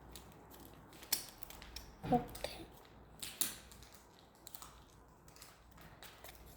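Scissors cutting paper: scattered small snips and clicks with paper rustling, the clearest about a second, two seconds and three seconds in.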